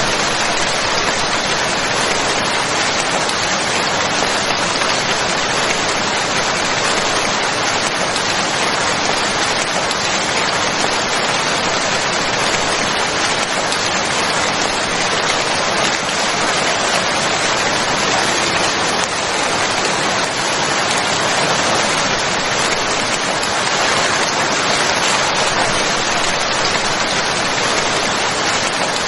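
Steady heavy rain falling on a surface, an even unbroken hiss with no distinct drops standing out.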